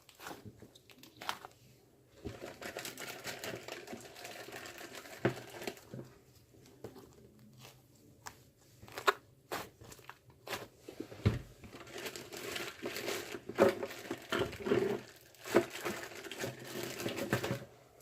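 Crinkling and rustling of something being handled, in stretches of a few seconds, with scattered sharp clicks throughout.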